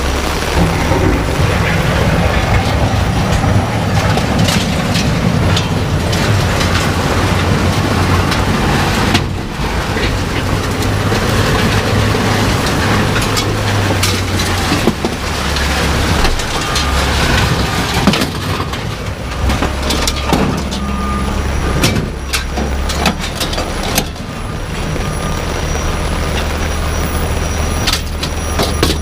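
Heavy rain pouring down with a steady low engine hum underneath and scattered sharp ticks and knocks; from about halfway through, a steady high ringing alarm tone sounds as well.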